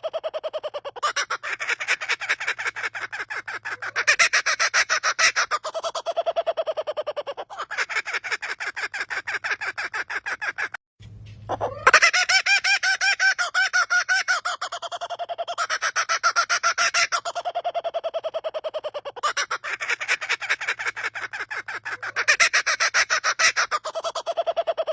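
A bird giving a laughter-like call: fast runs of rapidly repeated notes, each run a couple of seconds long, repeating again and again. The calling breaks off briefly about halfway through, then resumes with a rising call.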